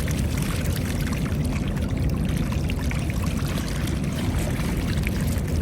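Water splashing and pouring steadily, with a dense low churn and many small drips and ticks.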